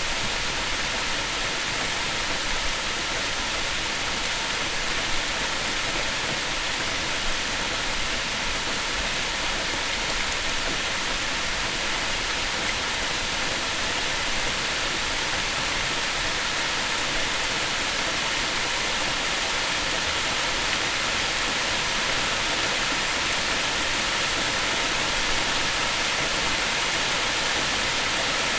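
Steady rain falling on leaves: an even hiss of rain with faint scattered drop ticks.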